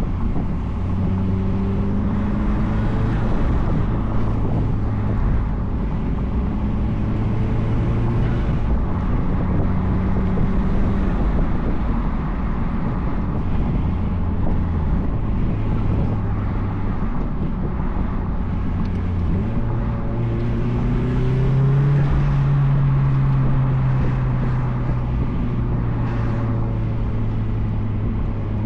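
2004 Mazdaspeed Miata's turbocharged four-cylinder engine running through an aftermarket cat-back exhaust while driving. The engine note changes pitch several times and climbs just past two-thirds of the way through before easing off.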